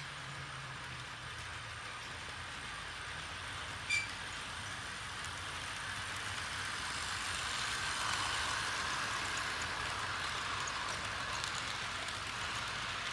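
HO-scale model diesel locomotives and coaches running on layout track: a steady whirring, rattling roll of small motors and metal wheels. It grows louder past the middle as the train comes close. There is a single sharp click about four seconds in.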